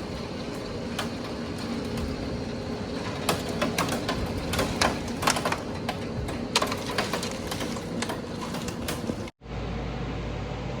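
Hail and rain coming down in a thunderstorm: a steady hiss of rain with many sharp clicks of hailstones striking, thickest from about three seconds in. It cuts off abruptly near the end, giving way to a steady low hum.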